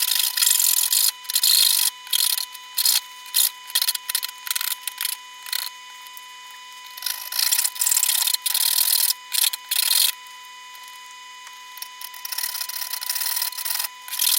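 A hand tool worked in repeated rasping strokes, uneven in pace, with a pause of about two seconds past the middle.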